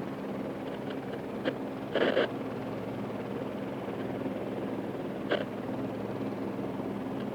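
Airbus AS350B3 helicopter running steadily on the ground with its turbine and rotor turning before takeoff, a constant hum with a few steady tones. A short burst of noise comes about two seconds in, and a brief click a few seconds later.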